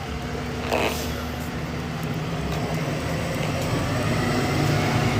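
Street traffic: a motor vehicle's engine running close by, a steady low hum that slowly grows louder.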